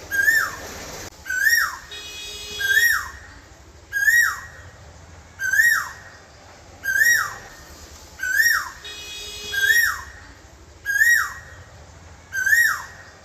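Asian koel calling: a clear whistled note that slides up and then drops, repeated about ten times at a steady pace of roughly one call every second and a half.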